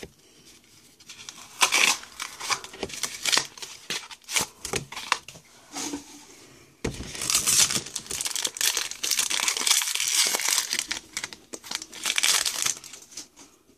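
Foil Pokémon card booster pack being torn open and its wrapper crinkled, a run of crackles and rustles that grows louder and busier about halfway through.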